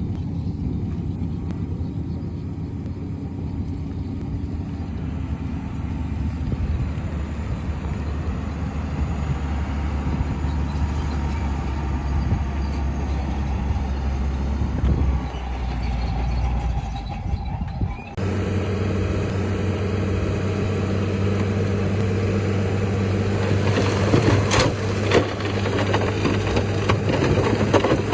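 Heavy diesel earthmoving machinery running steadily under work, with its engine note changing abruptly about two-thirds of the way in and a few sharp knocks near the end.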